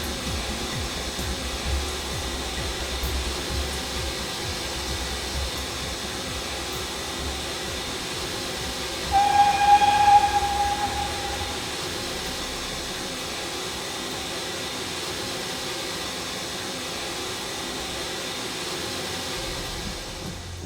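Steam locomotive hissing steadily, with a single steam whistle blast of about two seconds near the middle.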